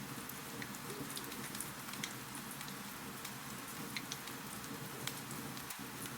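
Wood fire crackling in a fireplace: frequent small sharp pops and ticks over a steady hiss.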